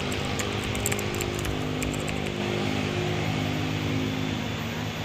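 A small engine running steadily over outdoor background noise, easing off near the end.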